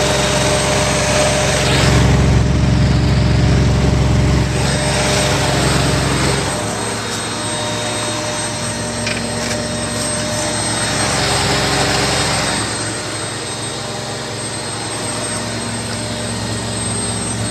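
Zanussi washing machine spinning at maximum spin speed: a steady motor whine and drum rush, with a heavy low rumble that eases off about six and a half seconds in.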